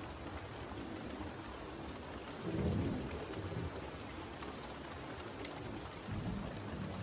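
Steady rain falling, with two low rumbles of distant thunder, the first about two and a half seconds in and the second near the end.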